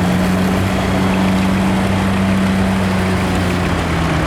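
Vintage farm tractor engine running steadily, holding an even note.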